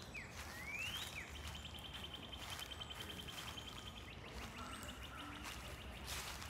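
A songbird calling outdoors: a few quick rising whistles, then a long, rapid trill at one pitch that runs for about three seconds, breaks briefly and starts again.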